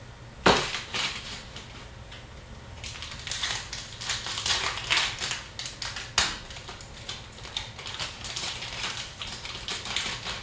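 Hockey trading card packs and cards being handled: a rapid, irregular run of crackles, clicks and snaps of wrappers and card stock, with a sharp snap about half a second in and a busier stretch in the second half.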